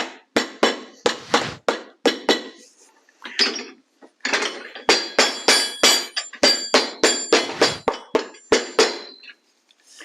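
Cobbler's hammer tapping on a freshly glued shoe sole: a quick series of sharp, ringing strikes, about three a second, with a short pause partway through.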